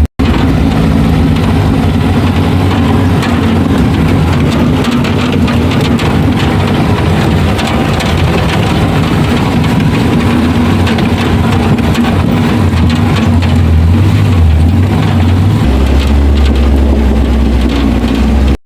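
Off-road 4x4 engine running steadily under a loud, even hiss. The engine's low note shifts a little about two-thirds of the way through.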